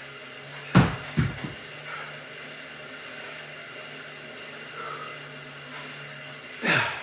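A sharp knock and two smaller ones about a second in, over a steady low hum, then a heavy breath out near the end, during a workout on an exercise bike with weights.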